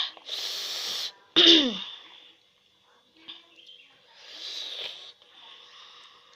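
A person breathing hard after eating spicy instant noodles. A long hissing breath is followed about a second and a half in by a loud, short voiced outburst that falls in pitch, and a softer breath comes near five seconds.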